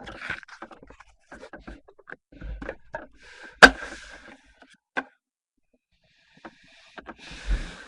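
Trading cards being handled and flipped through, with scattered small clicks and rustles. One sharp snap comes about three and a half seconds in, and short bursts of sliding, rustling noise follow it and come again near the end.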